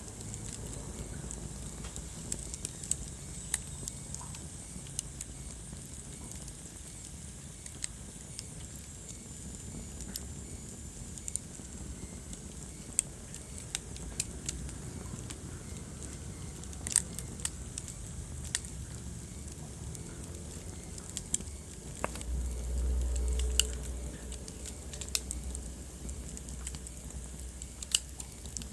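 Wood fire burning in a fireplace, crackling with sharp, irregular pops and snaps over a steady low rumble of flames. About three-quarters of the way through, the low rumble swells louder for a couple of seconds.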